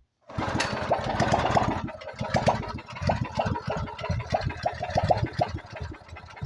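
196cc single-cylinder small engine pull-started on full choke, catching about a third of a second in and then running unevenly, its level rising and falling with two dips. It will only run on choke, which the owner suspects comes from the carburetor being mounted straight to the block without its spacer.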